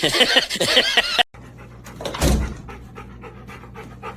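High, wavering cries that cut off abruptly about a second in, then a dog panting rapidly, with a low thud shortly after the cut.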